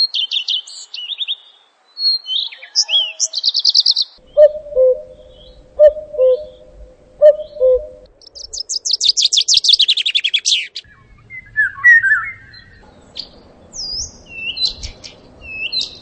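A string of bird calls spliced one after another. High chirps and trills come first. Then a low two-note call is repeated about four times, followed by a fast falling trill, a short chatter, and repeated short high whistled notes.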